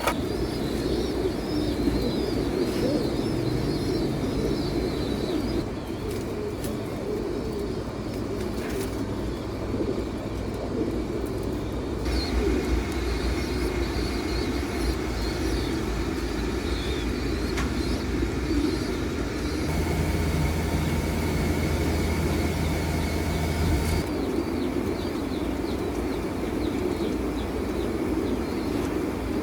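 A flock of domestic pigeons cooing together in a dense, continuous chorus, with high, wavering chirps over it.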